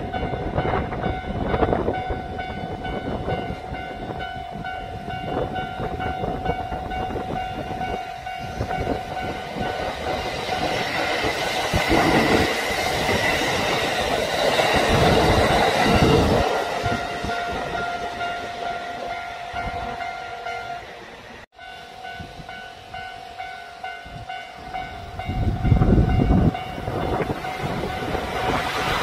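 Electric train running past, its wheels clattering over the rail joints, with a steady high tone above the rumble. The sound cuts off sharply about two-thirds of the way through, then train running noise builds again near the end.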